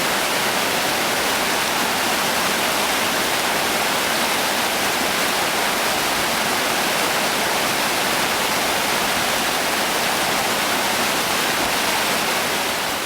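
Rushing water of the Oirase Stream, a mountain river: a steady, even rush that begins to fade out near the end.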